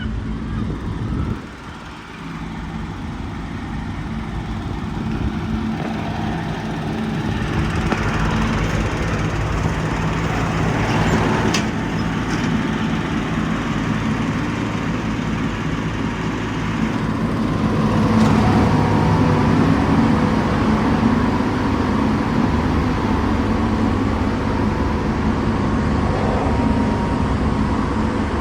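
Diesel engine of a Scania P 230 truck running steadily, briefly dropping about a second in, then growing louder twice.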